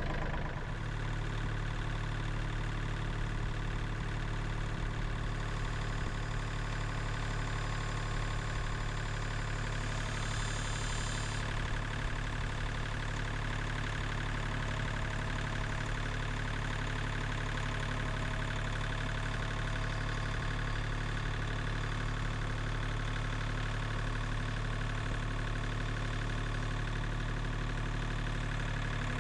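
An engine idling steadily, with a brief faint high whine about ten seconds in.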